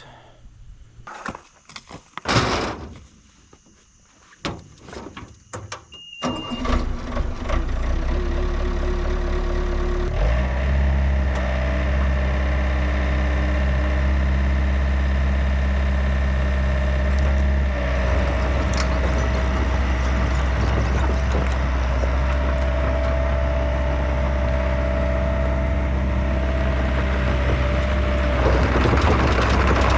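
A few knocks, then the Yanmar B50 excavator's diesel engine cranks and starts about six seconds in. It runs steadily, getting louder and fuller about ten seconds in, and more noise joins near the end.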